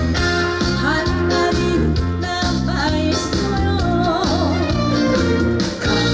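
Trot song performed live: a woman singing over backing music with a steady beat, with a wavering held note about four seconds in.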